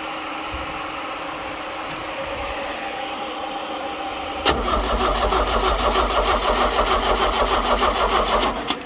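Starter cranking the John Deere 70 skid steer's glow-plug diesel engine in a steady rhythmic churn for about four seconds, beginning about halfway in and cutting off suddenly without the engine catching. Before it, only a steady background hum.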